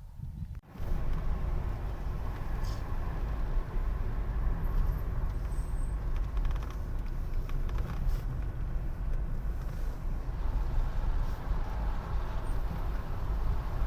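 Road vehicle driving, a steady low rumble that starts suddenly under a second in and holds.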